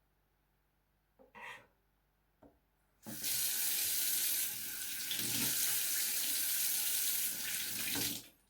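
Kitchen tap turned on and running water into the sink for about five seconds, then shut off, after a brief handling clunk about a second in.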